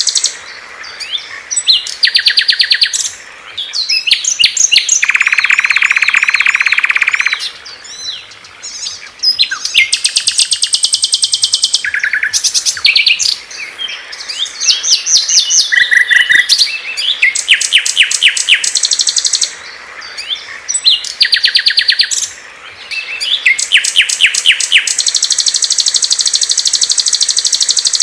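Small songbirds singing in close succession: loud, fast high-pitched trills, buzzy phrases and rapidly repeated chirps that change every few seconds. A long high buzzy trill opens and closes the stretch, and a lower buzzing phrase comes about five seconds in.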